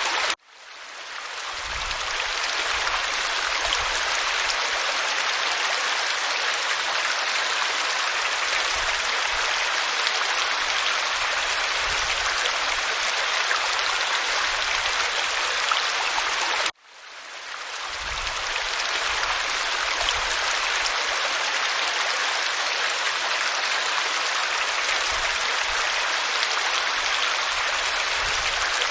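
Waterfall pouring over rock: a steady, even rush of water. It cuts out abruptly about half a second in and again around seventeen seconds in, each time swelling back up over a couple of seconds.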